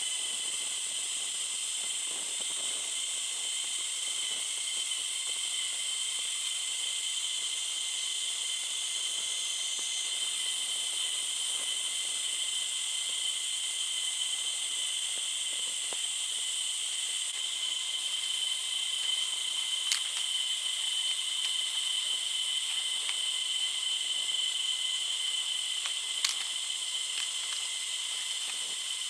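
A steady chorus of forest insects, several shrill high-pitched tones running together without a break. Two sharp clicks sound in the second half, about six seconds apart.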